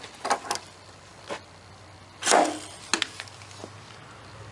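Paintless-dent-repair pulling tool and glue tab working on a car body panel: a series of sharp knocks and clicks, the loudest about two seconds in.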